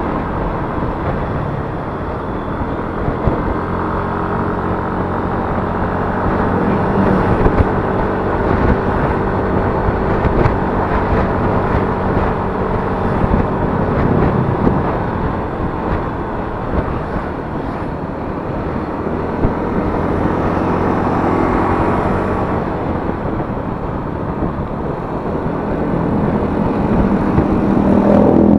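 Yamaha Mio S 125 cc scooter engine running on the move, its pitch rising and falling a few times as the throttle changes, over steady road and wind noise.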